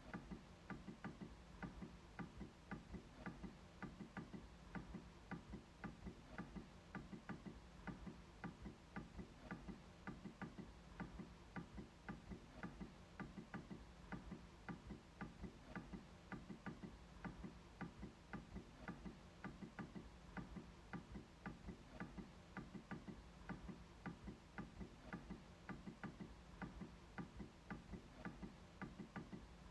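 MacBook trackpad being clicked over and over, a steady run of short, sharp clicks about three a second.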